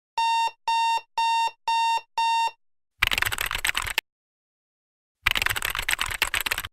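Five identical short electronic beeps at one steady pitch, about two a second, followed by two separate bursts of dense rattling noise about a second or so long, each starting and cutting off abruptly.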